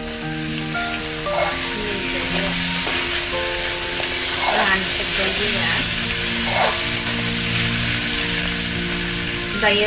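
Pork pieces frying in hot oil in a stainless-steel wok, a steady sizzle, with a metal spatula stirring and scraping the pan a few times. Background music with held notes plays underneath.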